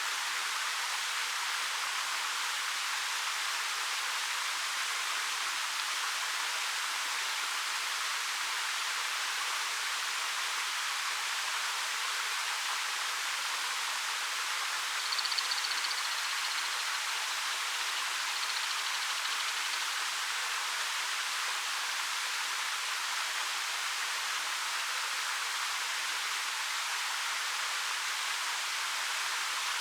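A 13 m waterfall pouring steadily over a rock face, an even hiss of falling water. A short, faint high call sounds about halfway through and again a few seconds later.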